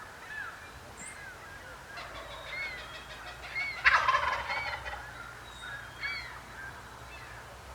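Wild turkey gobbler gobbling: one loud, fast rattling gobble about four seconds in. Small birds chirp around it.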